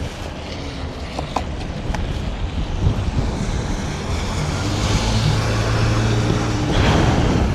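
Riding noise of an electric scooter on wet streets: wind rushing over the helmet mic and tyre noise. A low steady drone of a motor vehicle builds and grows louder over the second half.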